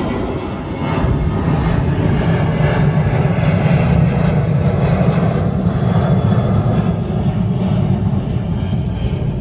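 Mercury outboard motor running with the boat under way. It gets louder about a second in as it is throttled up, then runs steadily.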